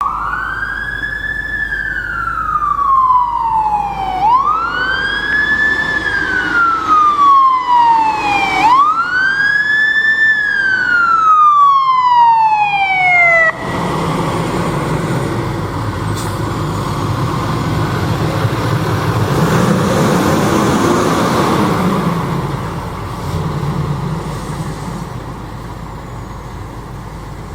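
Fire engine siren wailing through three rising-and-falling sweeps, each rising quickly and falling more slowly, then cutting off abruptly about halfway through. After that the fire engine's diesel engine rumbles as it drives past, swelling and then fading toward the end.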